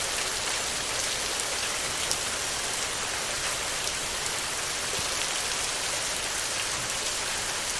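Heavy rain falling steadily on a tin roof, a constant hiss with the fine ticks of single drops striking the metal.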